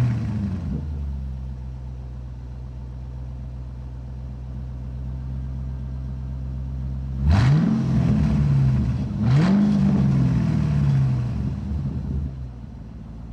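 Sports car engine idling steadily, revved twice, about seven and about nine seconds in, each rev rising in pitch and falling back to idle.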